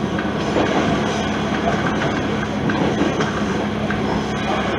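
Isumi Railway diesel railcar running along the line, heard from inside the car: a steady engine hum over continuous wheel-on-rail rumble.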